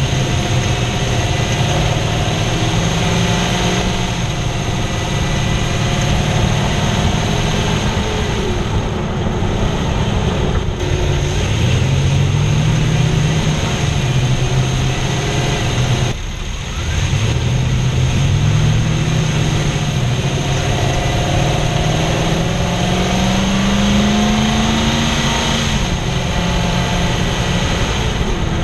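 2006 Toyota Tundra engine running close under the hood, revved up and dropped back to idle several times, with one longer, slower climb in revs near the end.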